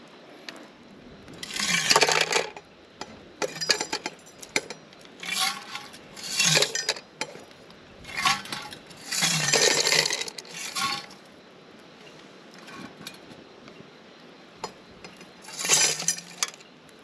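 Clinking and clattering of hard objects being handled, in about eight separate bursts, the longest near 2 s, 6 s, 10 s and 16 s in.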